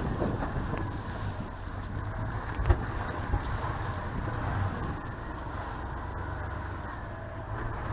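Chevy Tahoe's engine running steadily as the truck drives in four-wheel drive, with two short knocks about three seconds in.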